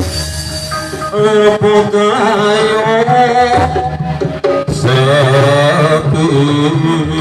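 Kuda lumping accompaniment music: Javanese hand drums with a wavering melodic line above a steady low drone, with a sudden break about four and a half seconds in.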